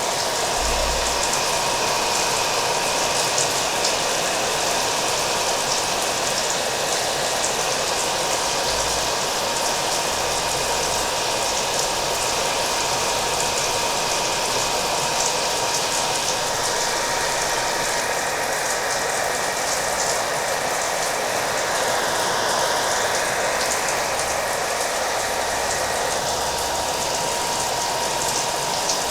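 Hair dryer blowing steadily with a constant whine, mixed with the hiss of heavy rain.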